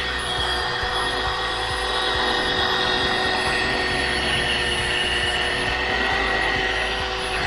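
Electric polishing buffer running steadily at about 3500, its pad riding lightly on a stainless aircraft exhaust stack to polish it, a constant motor whine over a rushing hiss.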